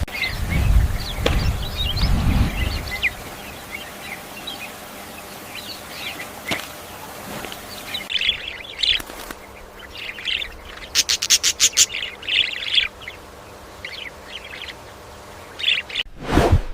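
Birds chirping in many short, high chirps, with a fast run of sharp chirps about eleven seconds in. A low rumble runs under the first few seconds.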